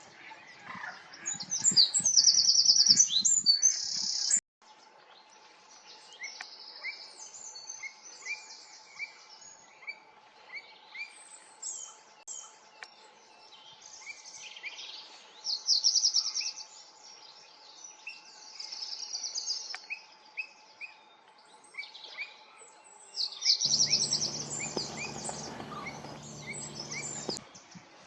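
Several wild birds singing and calling: fast, high trilled songs over a run of short repeated chirps. A faint steady hum lies underneath, and near the end a rumbling hum joins in.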